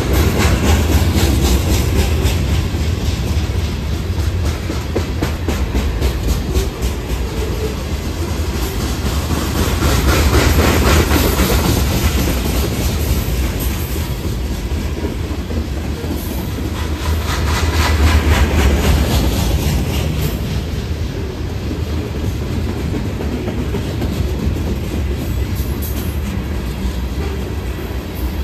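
Freight train rolling past, its cars' wheels clicking rhythmically over the rail joints above a steady rumble. The sound swells twice, about a third and two-thirds of the way through.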